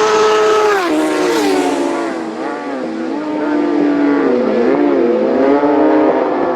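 Racing motorcycles at full throttle on a closed road course. One engine's high pitch holds, then drops about a second in as it goes past. Engine notes then rise and fall and cross one another, so more than one bike is heard at once.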